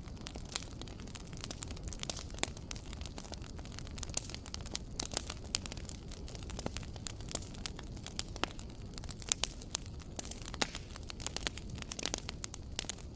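Wood fire crackling in a fireplace: a steady low rumble of flame with many irregular sharp pops and snaps, a few louder pops about five and nine seconds in.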